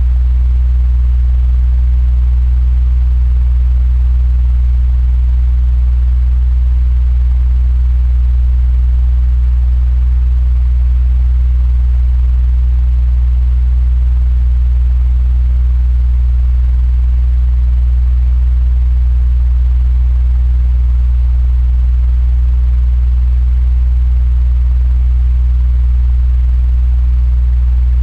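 Electric fan running steadily: a strong low hum with a faint, even hiss of moving air above it.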